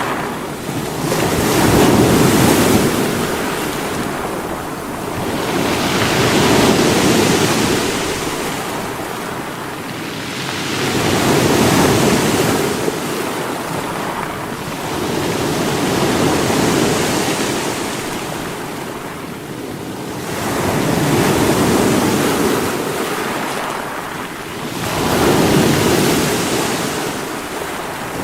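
Sea waves breaking against rocks, a continuous rushing wash that swells and falls back about every four to five seconds.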